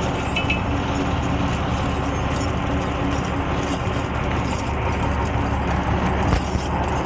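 Heavy tire chains clinking and jingling as they are handled and fitted on a tractor tire, over an engine running steadily.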